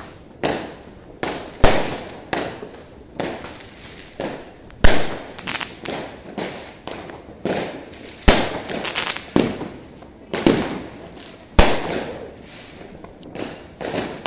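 Fireworks going off: an irregular string of sharp bangs, roughly one or two a second, each dying away in a short echoing tail.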